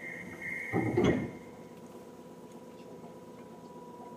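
Inside a Seibu 2000 series electric train that has slowed or stopped: a short louder burst about a second in, then a steady quiet electrical hum with a faint high tone.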